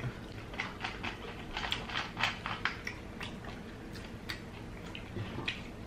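Close-up chewing of lobster tail meat: wet mouth clicks and smacks coming irregularly, several a second.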